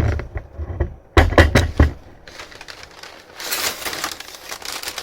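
A cardboard shipping box being handled, with a few quick knocks, then packing paper rustling and crinkling as it is pulled out.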